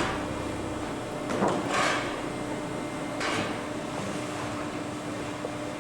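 Cardboard baler and its feed conveyor running: a steady machine hum, with a few short noisy bursts in the first half.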